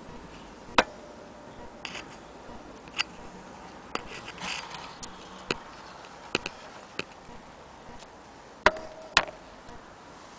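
Old wooden mandolins being handled: about nine irregular sharp knocks and clicks. Two of the louder ones, about a second in and near the end, leave a brief ringing tone.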